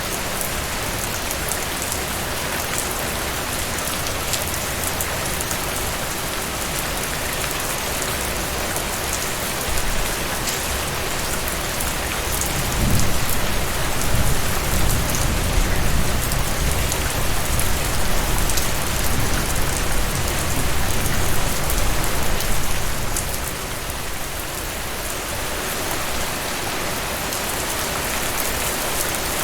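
Heavy rain falling steadily, a dense hiss of drops. Partway through, a low rumble of thunder swells for about ten seconds, then dies away.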